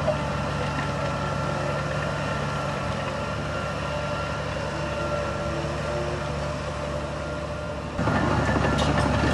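Heavy diesel engine of earthmoving equipment running steadily. About eight seconds in, the sound abruptly turns louder and rougher.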